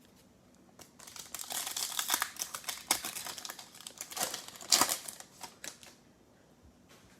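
Plastic trading card pack wrapper crackling and crinkling as it is torn open and handled, a dense run of crackling and clicks lasting about five seconds.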